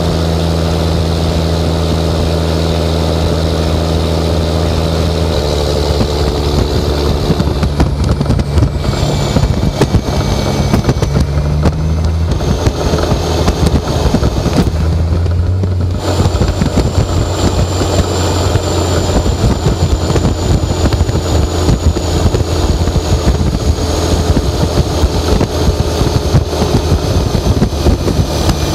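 Straight-piped 11.1-litre Series 60 Detroit diesel pulling a heavily loaded dump truck. It runs at a steady drone, then about five seconds in the note changes and the exhaust turns rough and choppy under load. A high whine falls slowly in pitch over it.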